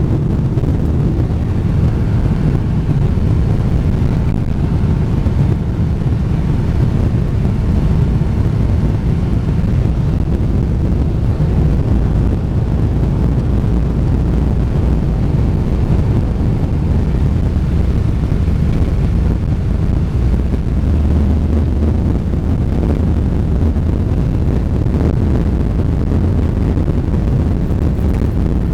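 Boeing 777-300ER's GE90 jet engines running at high power during takeoff, a loud, steady low rumble.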